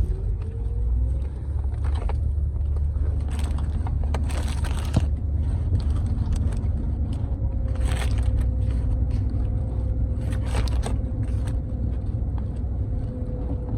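Paper burger wrapper crinkling in several short rustles as it is opened, over a steady low rumble.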